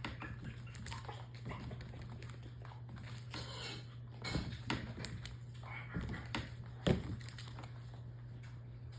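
Maltipoo puppy jumping repeatedly, its paws landing on the floor in a handful of short thumps, the loudest about seven seconds in, over a steady low hum.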